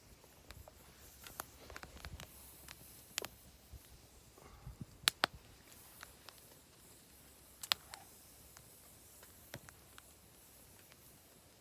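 Wood fire crackling: scattered faint snaps and pops at irregular moments, with two louder sharp pops in the middle.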